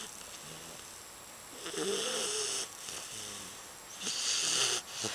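English Bulldog puppy snoring in its sleep: a rhythmic, rasping snore on each breath, with two louder, wheezy snores about two seconds apart and softer ones between them. Heavy snoring like this is typical of the breed's short, flat-faced airway.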